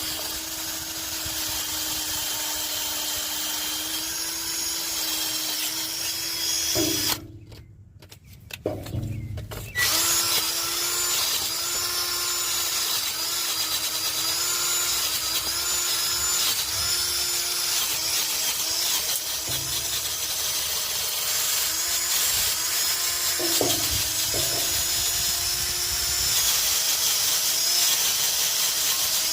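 Handheld power tool running steadily while it cleans rust off a car's exhaust pipe, its pitch dipping and wavering under load. It stops for about three seconds roughly a quarter of the way in, then starts again.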